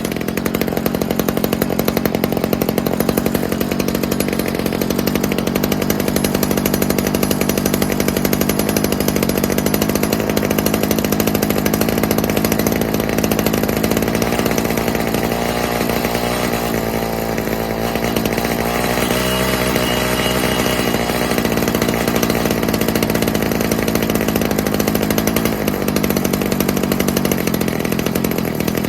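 Stihl HS45 hedge trimmer's small two-stroke engine running steadily as it warms up after a carburettor rebuild, its pitch wavering briefly about halfway through.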